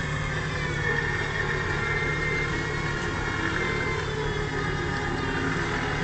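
Off-road SUV's engine running steadily at low revs while the vehicle sits in water up to its windows.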